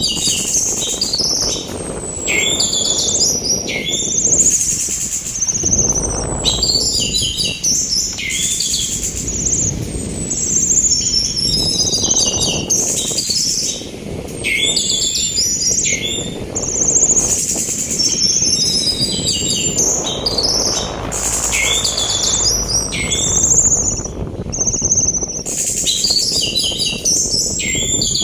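Orange-headed thrush singing in repeated phrases of quick chattering and high, sweeping whistles. Under the song runs a low rushing of sea wind that swells and eases every several seconds.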